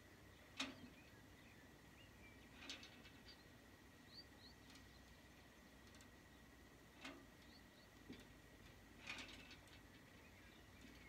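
Near silence outdoors: faint bird chirps and a handful of sharp clicks, the loudest about half a second in, over a faint steady high tone.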